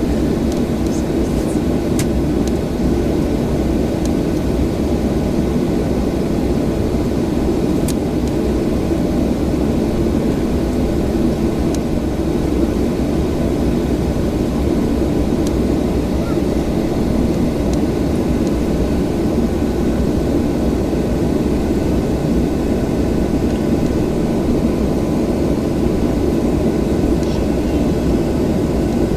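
Steady, even cabin noise of a Boeing 737-800's CFM56-7B turbofan engines running at low power, heard from inside the passenger cabin. A faint constant tone runs under it, with a few light ticks.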